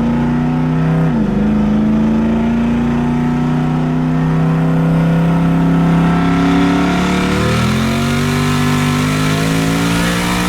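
Twin-turbo Ford F-150 pulling hard under full acceleration with its exhaust in sport mode, engine pitch climbing steadily through the gears. There is an upshift about a second in and another near the end, each a brief dip in pitch before it climbs again.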